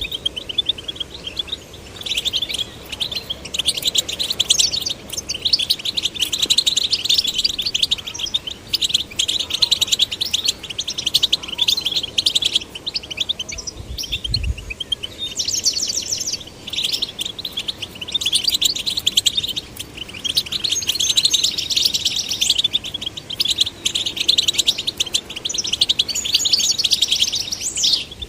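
European goldfinch singing: a fast, liquid twittering song of rapid tinkling notes, delivered in long phrases with short breaks between them.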